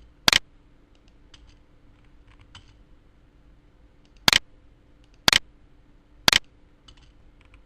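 Four loud, sharp clicks from working a computer: one just after the start, then three evenly spaced about a second apart, with faint soft key taps in between.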